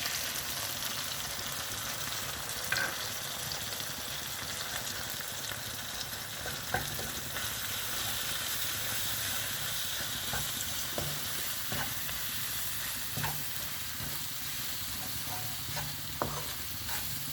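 Marunthu spice powder frying in gingelly oil with sautéed onions, garlic and tomato, sizzling steadily as it is stirred, with scattered light clicks of the utensil against the pan.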